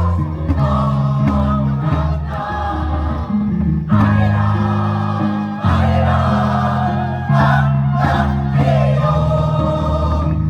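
Choir singing a song, with held low notes sounding beneath the voices.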